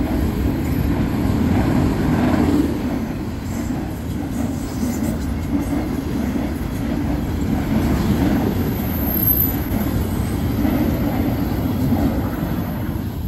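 Freight train of autorack cars rolling past close by: a steady, heavy rumble of steel wheels on rail that swells and dips slightly as the cars go by.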